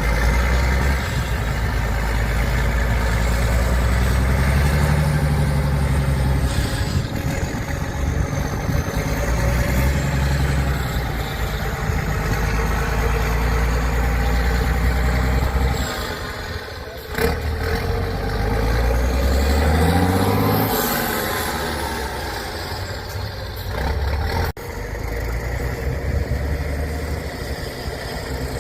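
Heavy off-road trial truck diesel engines working under load, the revs rising and falling, with one clear rev climbing in pitch about two-thirds of the way through. The sound changes abruptly twice, about 17 and 24 seconds in.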